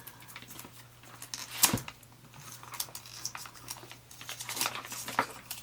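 Packaging being handled during an unboxing: scattered rustling, crinkling and light clicks, with one sharp knock a little under two seconds in.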